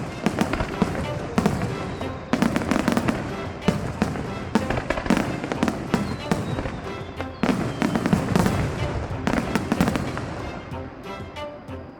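Fireworks display: a dense barrage of aerial shells bursting and crackling, many reports a second, over music from loudspeakers. The barrage thins out near the end.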